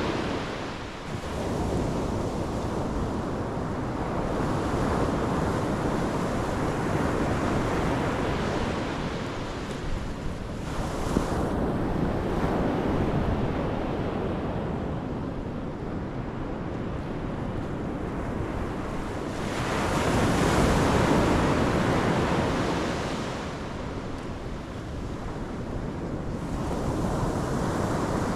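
Pacific Ocean surf breaking and washing on the shore in slow swells, one wave building loudest about two-thirds of the way through, with wind buffeting the microphone.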